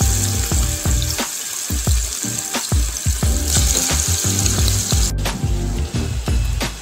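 Masala-marinated prawns sizzling in hot oil in a non-stick frying pan, over background music with a steady beat. The sizzle drops suddenly about five seconds in.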